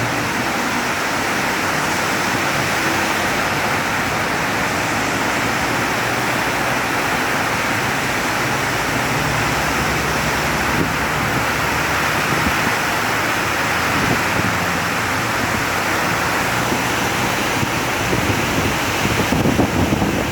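Heavy rain pouring steadily, a dense even hiss, with some low rumbling bumps near the end.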